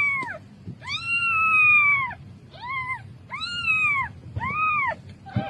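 A cat meowing repeatedly: about five meows that each rise and fall in pitch, the second one long and drawn out, the others short.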